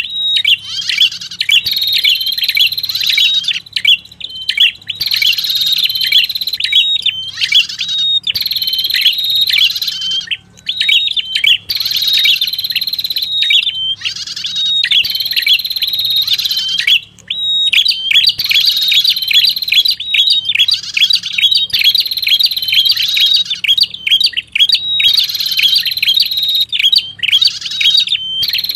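Lure recording of a prenjak kepala merah calling: fast runs of high, sharp chirps in phrases about two seconds long, repeated with short breaks between. A faint low hum lies underneath.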